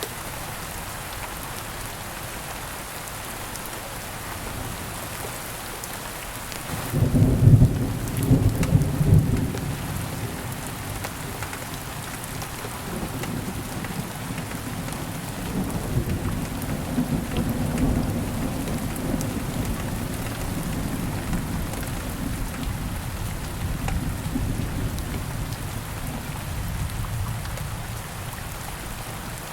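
Steady rain falling. About seven seconds in, a loud clap of thunder breaks in, then rumbles on lower for most of the rest, fading near the end.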